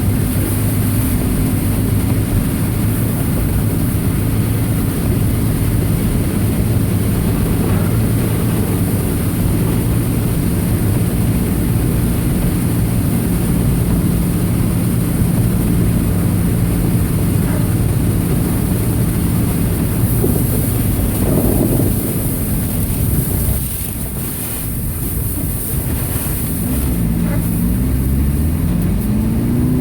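Subaru Impreza EJ25 2.5-litre flat-four running at a steady pace with road noise. About three-quarters of the way through the level drops briefly, then the engine rises in pitch as it accelerates near the end.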